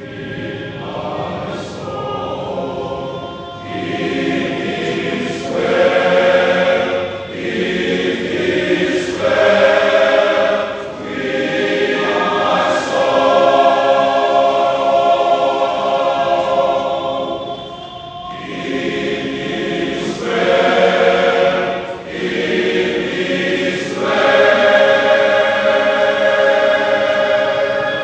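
Men's church choir singing in parts, sustained chords in phrases a few seconds long with short breaths between them.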